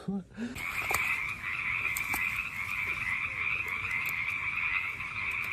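Chorus of many frogs calling at once, a dense, steady high-pitched drone that starts abruptly about half a second in and does not let up.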